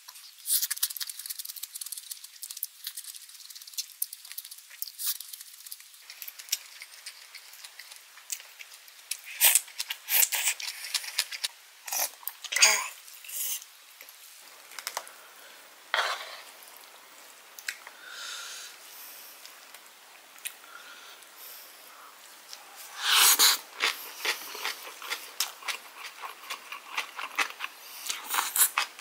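Close-miked chewing and crunching of rice with kimchi, made up of many sharp, crisp clicks coming in bursts. The loudest burst comes about three-quarters of the way through.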